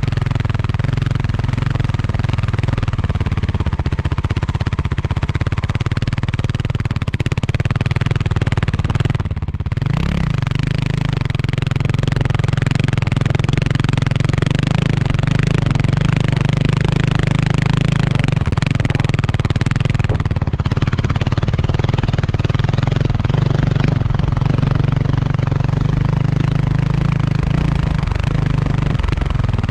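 Kawasaki KLX300R single-cylinder four-stroke dirt bike engine running at a fairly steady throttle while riding, with wind and road noise, briefly dipping twice.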